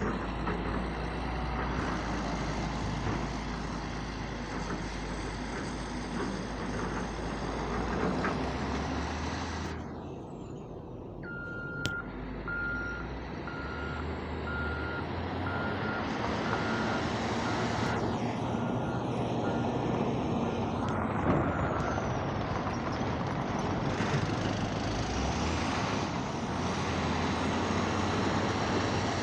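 Heavy diesel machinery (an excavator working with dump trucks) running steadily, with a reversing alarm giving a string of evenly spaced beeps for about ten seconds in the middle.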